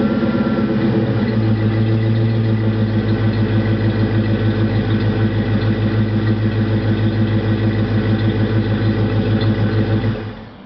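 Ford 302 (5.0-litre) V8 exhausting through an H-pipe and Flowmaster 40 series mufflers, settling from a rev back to idle in the first second. It then idles with a steady, rhythmic burble. The sound cuts off about ten seconds in.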